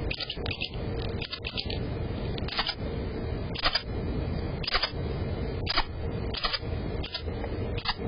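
Short sharp clicks or taps, about one a second, over a steady hum and hiss from a low-quality webcam microphone.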